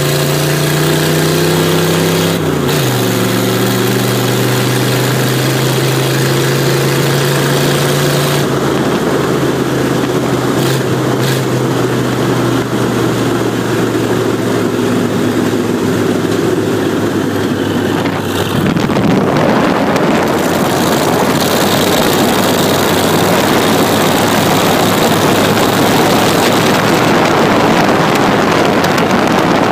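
Car engine running at speed, heard from the driver's seat: its pitch climbs, drops sharply with a gear change about two and a half seconds in, then holds steady. A little past halfway, wind rushing over the microphone becomes the loudest sound.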